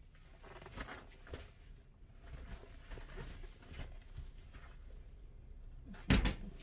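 Soft, irregular knocks and rustling over a low hum, with one louder thump about six seconds in.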